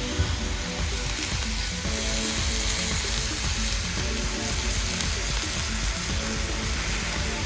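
Food sizzling in a hot frying pan over a campfire, a steady hissing fry that grows louder about two seconds in.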